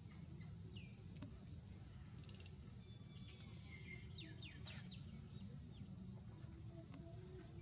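Faint bird chirps, a cluster of quick high notes about halfway through, over a steady high insect hiss and a low rumble.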